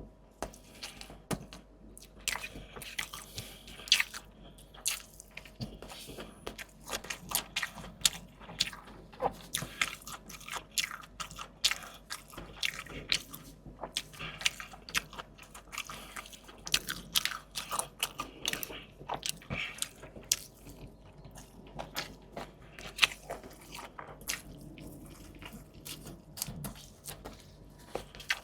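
Close-miked chewing and crunching of a meal of fried fish and fresh vegetables, a steady run of irregular crisp crackles and wet mouth clicks, a few sharper crunches standing out.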